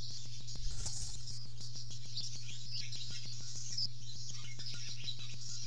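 Small birds chirping and twittering over a steady low electrical hum and a fast, even ticking. A brief low rumble comes about half a second to a second in.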